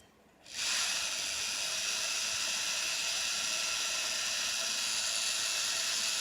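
High-speed rotary dermabrasion handpiece with a tungsten carbide bur, starting about half a second in and then running steadily with a hissing whine.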